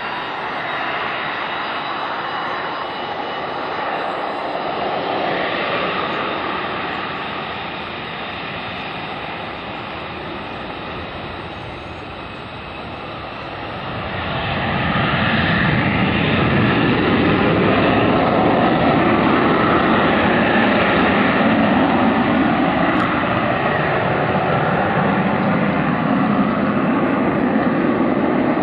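Jet airliner engines running: a steady rushing noise with a faint whine, which swells sharply about halfway through and stays loud.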